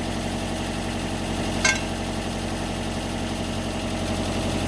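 Mitsubishi MS030 backhoe's diesel engine idling steadily, with a single sharp knock about one and a half seconds in.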